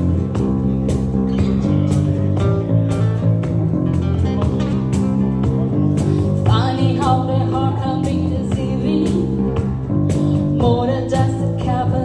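A band playing the intro of a bluesy song: guitar over a steady drum beat, with a wavering lead melody coming in about six and a half seconds in and again near the end.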